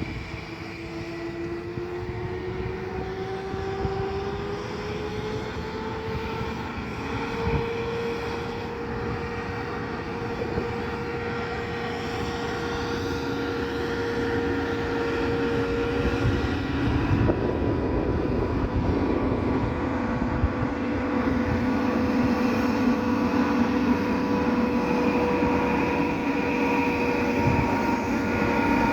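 Locomotive pulling away: a motor whine rises in pitch for several seconds, then holds steady over a rumble that grows louder toward the end.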